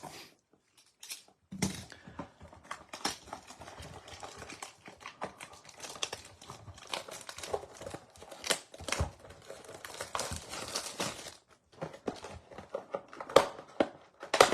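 Plastic shrink wrap being torn and crinkled off a cardboard box of trading card packs, with irregular crackling and small clicks, and a sharper click or knock near the end.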